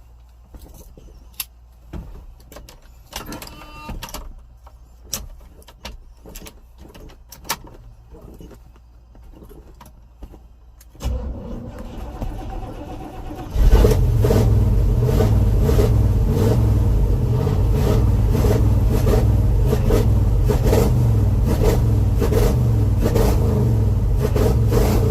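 Scattered clicks, then a car engine starting about eleven seconds in. It catches about two and a half seconds later and settles into a loud, steady idle.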